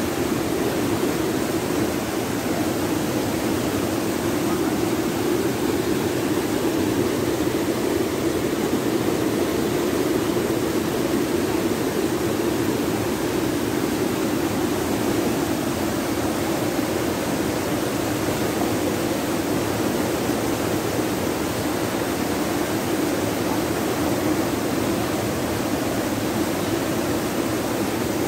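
Floodwater rushing steadily in a swollen river, a continuous even noise with no breaks.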